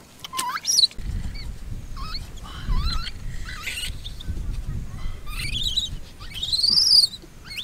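Birds calling: a series of high whistled notes that swoop up and down, the loudest arching call near the end, over a low rumble.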